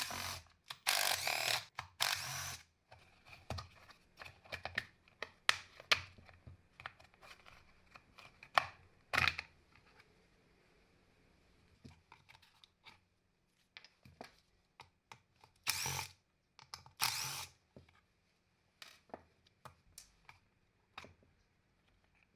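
A power tool run in a few short bursts, with clicking and knocking of parts being handled between them.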